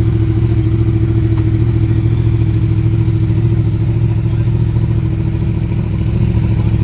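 An engine idling steadily: a loud, even, low throb at a constant pitch.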